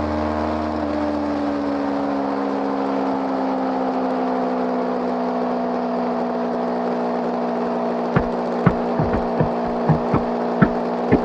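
Motorcycle engine running at a steady cruise, its pitch easing down slightly early on and then holding. From about eight seconds in, a string of sharp knocks or pops joins it.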